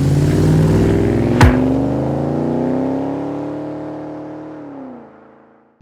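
Car engine revving up, its pitch climbing for a few seconds, then holding, then dropping as the throttle closes and the sound fades away. A single sharp crack comes about a second and a half in.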